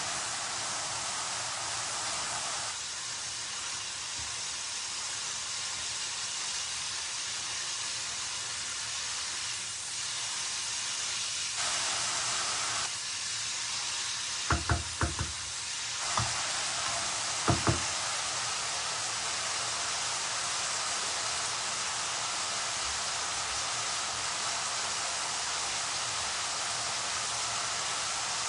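Food frying in oil in a pan, a steady sizzling hiss. About halfway through, a utensil knocks against the pan seven times in a few seconds, four in quick succession and then three more.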